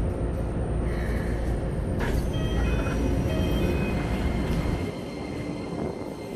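Keikyu 1000 series electric train with Siemens GTO-VVVF control rumbling as it slows into a station. There is a sharp click about two seconds in, then thin high steady tones, and the low rumble drops away near the end.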